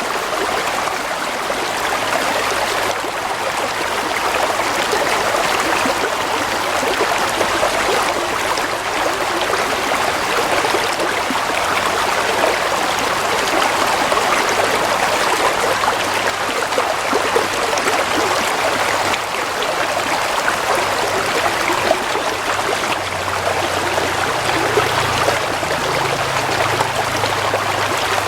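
Water flowing and trickling steadily in a stream.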